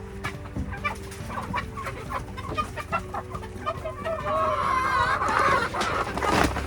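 A flock of chickens and roosters clucking in a series of short calls, with a longer wavering call about four seconds in.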